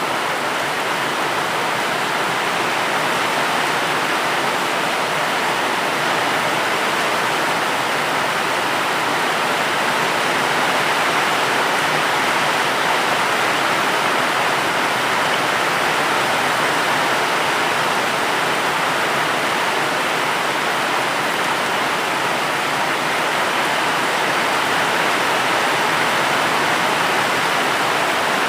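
Steady heavy rain: a dense, even hiss with no single drops standing out, unchanging throughout.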